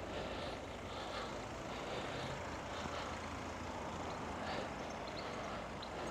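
Steady street traffic noise, with a constant low rumble. A few short high chirps come near the end.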